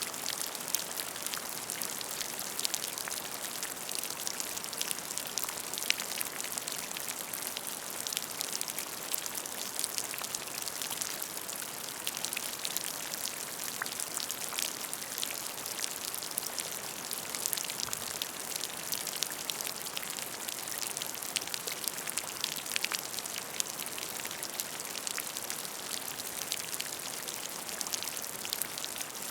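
Steady rain falling on a puddle: a dense even hiss dotted with many small separate drop splashes.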